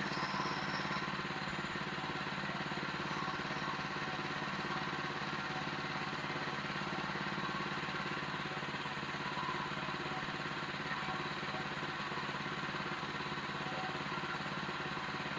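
Sawmill's engine running steadily at an even speed, with no change in load.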